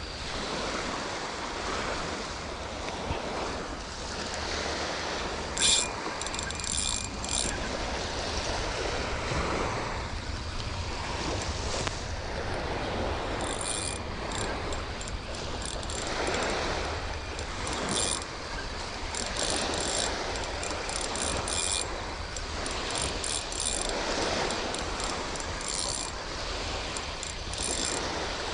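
Light surf washing up the beach, swelling and ebbing every few seconds. Bursts of short, high-pitched clicks come and go over it.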